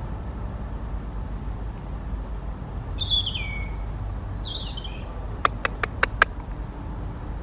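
Wild birds calling: two short notes that fall in pitch, with thin high chirps between them. Then come four quick, sharp clicks, over a steady low background rumble.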